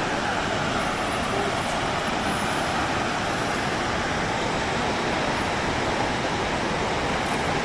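Steady, even rushing roar of Snoqualmie Falls, a large waterfall.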